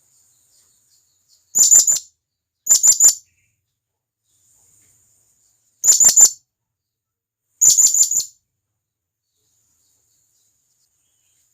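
Blue-crowned hanging parrot (serindit) giving loud, sharp, very high-pitched calls, the call it uses to summon companions. They come in four quick bursts of three or four notes each, with pauses of one to three seconds between them.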